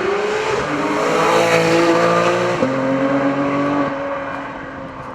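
Porsche 911 GT3's naturally aspirated flat-six revving hard under acceleration, then shifting up twice, the pitch dropping at each gear change. The engine fades away near the end.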